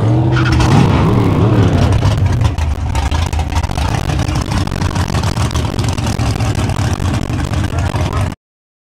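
Dodge Avenger drag car's engine idling loudly as the car rolls slowly. The sound cuts off abruptly near the end.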